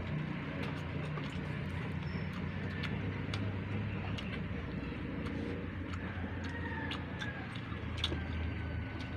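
Close-miked chewing: a run of short, irregular mouth clicks and smacks over a steady low hum.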